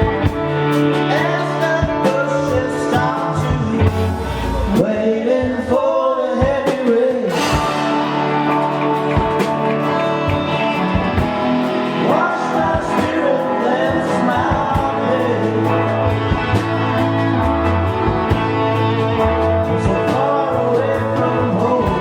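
Live band music: guitar chords and bass under a gliding lead melody.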